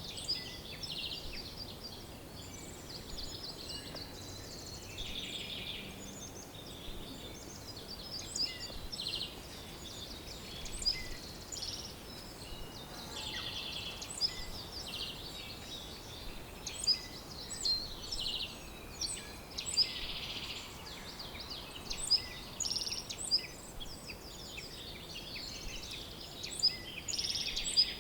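Several songbirds chirping and trilling together in a dawn-chorus-like mix, many short high calls overlapping, some rapid trills and a few sharper notes standing out, over a faint steady background hiss.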